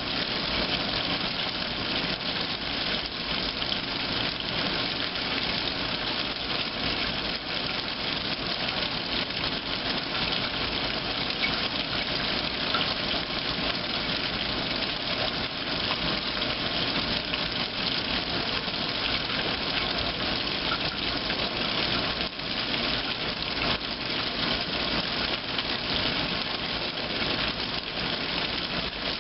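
2008 Kenmore top-load washing machine running its heavy duty cycle with the lid open: a steady rush of water into the tub.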